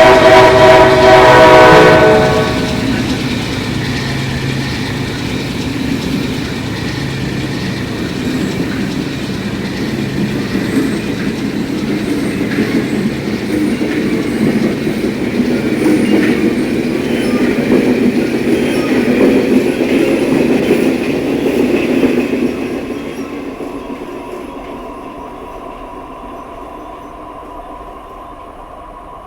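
MBTA commuter train with an MPI HSP46 diesel locomotive: a loud chord from the locomotive's horn cuts off about two seconds in, then the train rolls past with wheels clacking over rail joints, loudest near the middle and fading away over the last several seconds.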